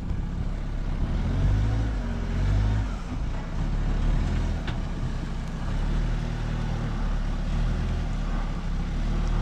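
Large diesel machinery engine running under load as a machine creeps slowly onto a trailer, its level swelling and easing every second or two.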